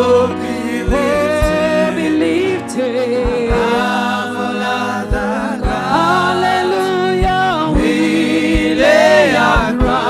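Gospel worship song: voices singing held, gliding lines over a band, with steady low drum hits underneath.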